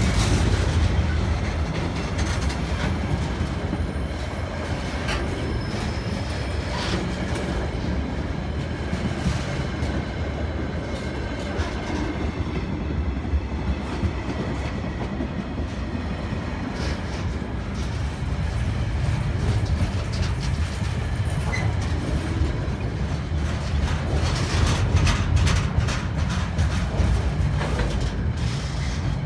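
A train rolling past on the rails: a steady low rumble with the clicks of wheels going over rail joints, coming thicker near the end.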